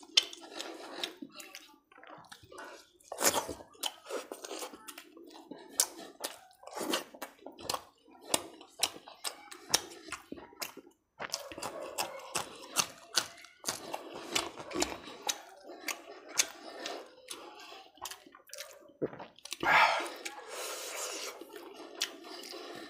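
Close-miked wet chewing and lip-smacking of a person eating curry-soaked roti and chicken by hand, a dense run of sharp mouth clicks and squishy sounds, with a longer breathy sound near the end.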